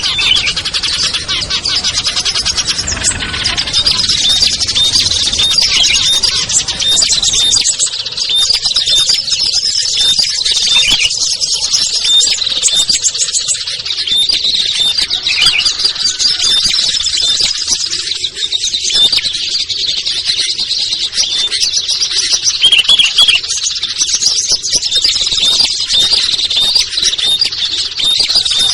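A dense, busy chorus of many small songbirds chirping and trilling at once, high-pitched and continuous, the kind of mixed recording played to lure small birds such as prinias, bulbuls and tailorbirds down.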